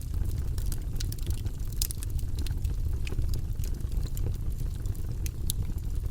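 Wood campfire crackling, with frequent sharp irregular pops and snaps over a steady low rumble.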